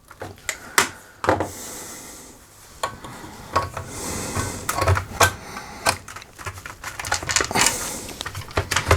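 Plastic and metal parts of a laminator being handled and pushed into position: irregular clicks and knocks, with two stretches of scraping, about a second in and about four seconds in.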